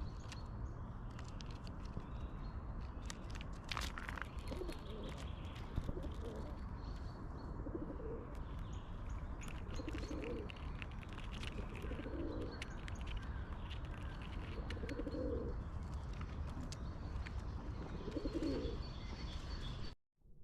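A pigeon cooing over and over, a low call repeated every two to three seconds, while small birds chirp in the background.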